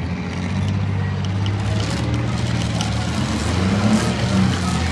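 Demolition derby cars' engines running at low revs as the cars circle slowly around the arena: a steady low rumble.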